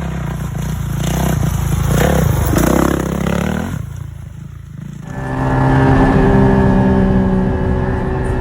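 Motocross dirt bike engines running and revving; about five seconds in, a steady engine note held at one pitch takes over.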